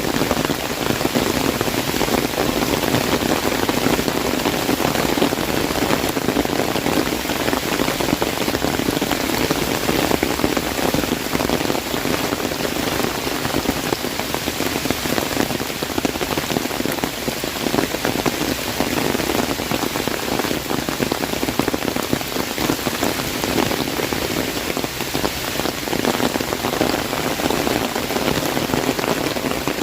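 Heavy rain falling on an umbrella overhead: a dense, steady hiss made of countless individual drop hits.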